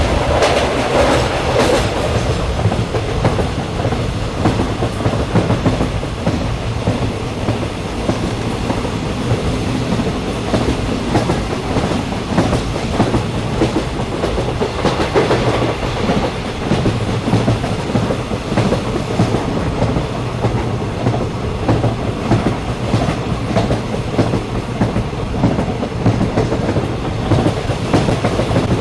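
Passenger train running along the track, heard on board: a steady rumble with a low hum and the clickety-clack of wheels over rail joints.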